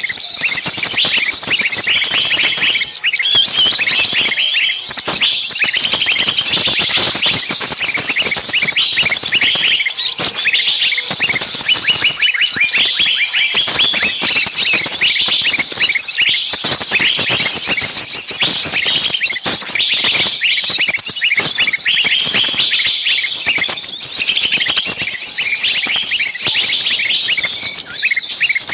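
Small birds calling in a loud, dense, unbroken clamour of rapid high chirps and shrill screeches. This is a bird-lure recording of agitated, distressed small-bird calls, of the kind a trapped bird gives, played to draw other small birds in.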